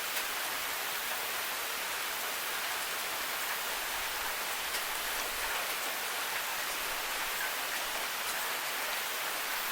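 Steady rain falling, an even hiss with a few faint drips ticking through it.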